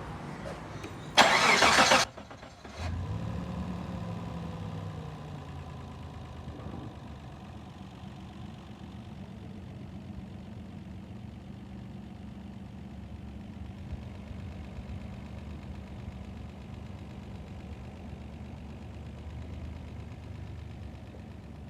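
Mitsubishi ECI-Multi 3000 V6 engine cranked on the starter for under a second, catching about three seconds in, then running slightly fast before settling to a steady idle.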